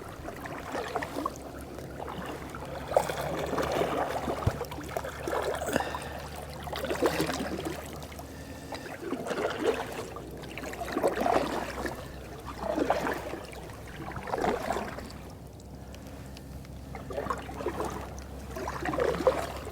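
Canoe paddle strokes in the water, a swell of splashing and dripping every second or two.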